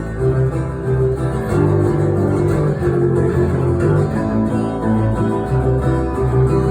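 Live acoustic band music without singing: strummed acoustic guitar, with low sustained notes changing about every second under it.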